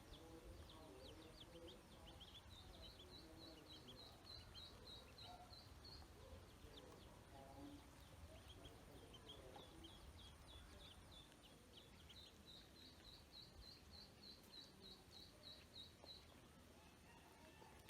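Ducklings peeping faintly: two long runs of short high chirps, about three to four a second, over a low steady rumble.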